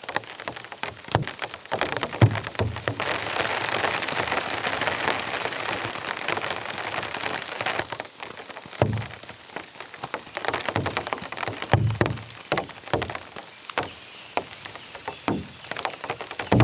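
Heavy rain falling, with many separate drops striking close by and a denser, louder wash of rain from about three to eight seconds in.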